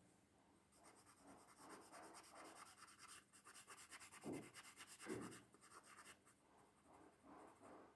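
Faint scratching of a pencil on paper in short, irregular shading strokes, with two slightly louder strokes a little after four and five seconds in.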